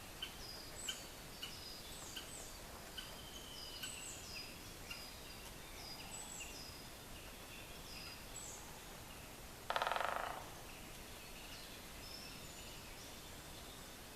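Great spotted woodpecker drumming: one rapid roll of beak strikes on wood, under a second long, about ten seconds in and the loudest sound here. Small songbirds call with short high notes throughout.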